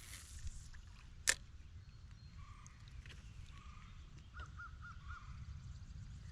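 Faint outdoor sounds over a low steady rumble: a single sharp click about a second in, then a bird calling four short quick notes past the middle.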